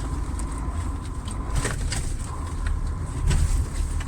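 Heavy truck's diesel engine running at low speed, heard from inside the cab, with a few short creaks and clicks, two of them more distinct.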